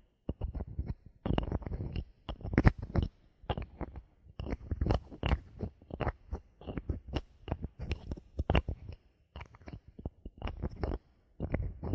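Bottle cap being handled as an ASMR trigger: a run of quick, irregular clicks, taps and crackles in short clusters, loudest about two and a half seconds in and again past eight seconds.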